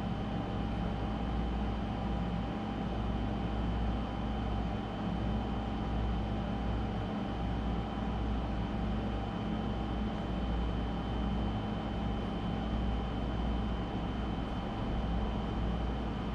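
A steady machine hum with a low drone and a thin, constant high whine above it, unchanging throughout.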